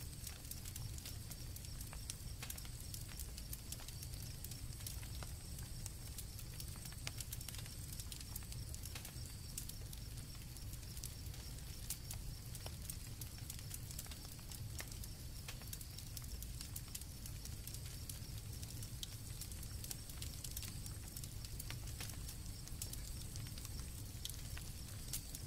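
Campfire crackling, with scattered sharp pops over a low rumble, and crickets chirping in a steady high trill.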